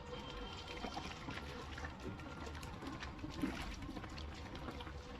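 Portable bucket washing machine running with a pullover in soapy water: faint water sloshing and trickling with small splashes over a low, steady motor hum.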